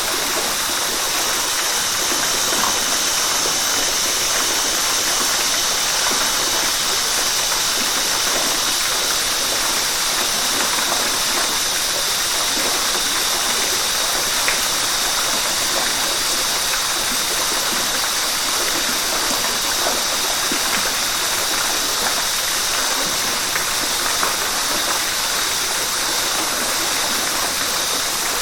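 River water rushing steadily, an even bright hiss with no change in level.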